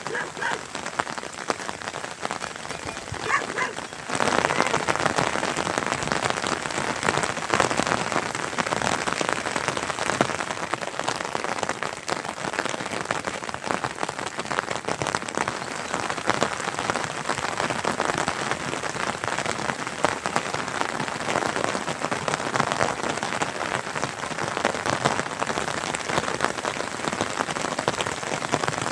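Steady rain falling and pattering on surfaces, growing heavier about four seconds in.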